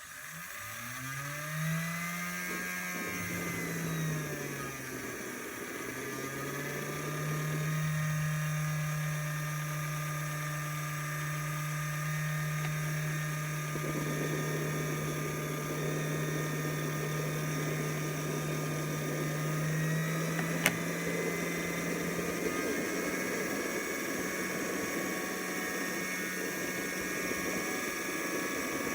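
JetCentral model turboprop turbine starting up: its whine rises and falls in pitch over the first few seconds, then settles into a steady whine with several high tones layered above it. A single sharp click about 21 seconds in.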